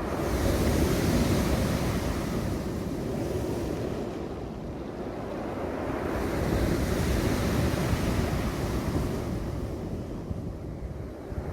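Sea waves surging onto a pebble beach twice, each surge arriving with a loud hiss of water over the stones that fades away over a few seconds.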